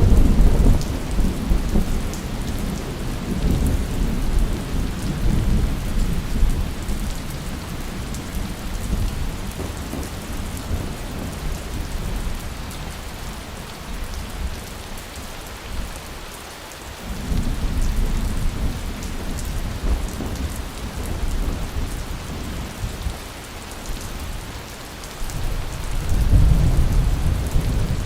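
Steady heavy rain with rolling thunder: one rumble is dying away in the opening seconds, another rolls in at about 17 seconds, and a third near the end.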